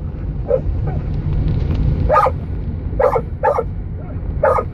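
A dog barking: about five short barks, two of them close together after the middle, over the steady low rumble of a car on the move.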